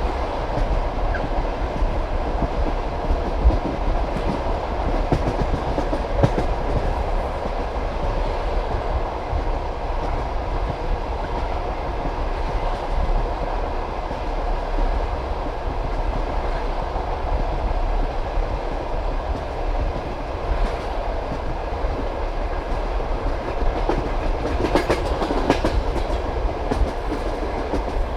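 Passenger train carriage running at speed: a steady rumble with the clickety-clack of wheels over rail joints, growing louder and brighter for a couple of seconds near the end.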